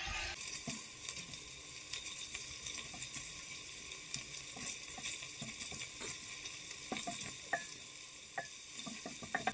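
Onions, garlic and chicken liver sizzling in hot oil in a pot while a silicone spatula stirs and scrapes them, with scattered sharp clicks, more of them near the end.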